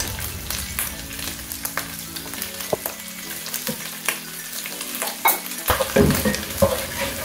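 Boiled tripe cubes sizzling in hot cooking oil in a pan, stirred with a utensil that clicks and scrapes against the pan. The stirring clatter is loudest in the last second or so.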